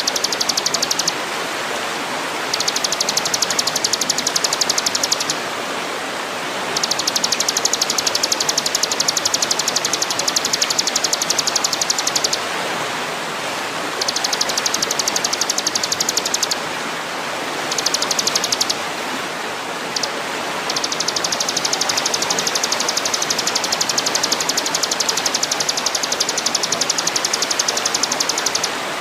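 A songbird's very fast, high, even trill, given six times in bursts of one to six seconds with short gaps. Under it runs a steady rushing noise like running water.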